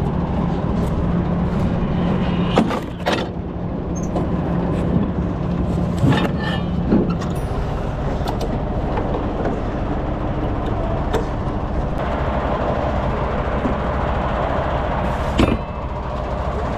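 Diesel semi-truck engine running steadily, with a few sharp clicks and clanks scattered through.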